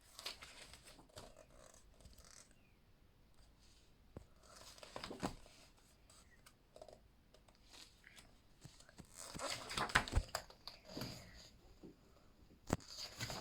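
Pages of a book being turned, with paper rustling and sliding in a few short bursts.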